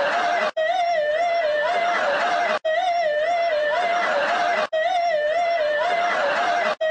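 Looped warbling alarm-type noise: a wobbling tone over a hiss, repeating about every two seconds with a brief drop-out between repeats.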